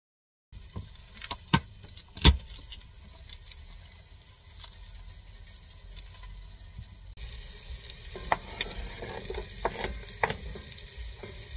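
Onion and bell pepper frying in oil in a pot: a steady sizzle, with scattered sharp clicks and knocks of a knife and hands on a cutting board, the loudest knock about two seconds in.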